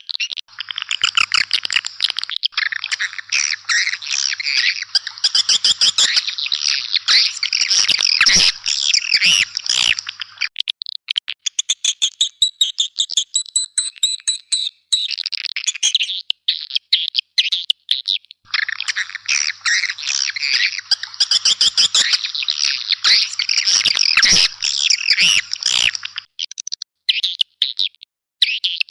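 Recorded swiftlet calls: rapid, high chirping and twittering, of the kind played as a lure call to draw swiftlets to nest houses. Two long dense stretches of packed calls, each lasting about eight to ten seconds, are separated by a few seconds of sparser chirps.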